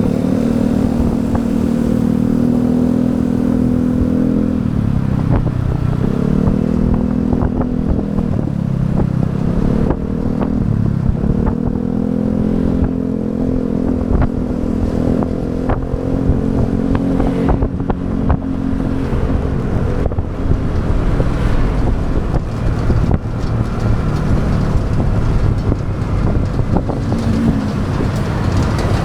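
Motorbike engine running on the move, its pitch dropping and climbing again twice in the first half as the speed changes, then holding steady before sinking into the wind and road rumble on the microphone.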